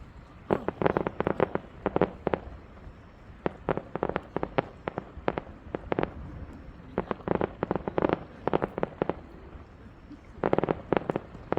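Fireworks going off in rapid volleys of sharp pops and crackles, several quick clusters of many reports one after another, each wave lasting a second or two.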